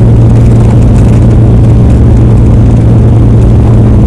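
Semi truck's diesel engine running steadily under way, a loud, even low drone with road noise over it.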